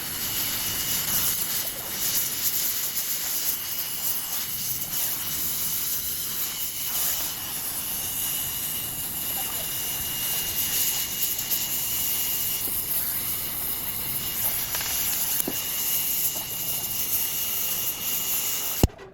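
Gas welding torch flame hissing steadily as it welds a seam on a motorcycle silencer (exhaust muffler). It cuts off suddenly near the end.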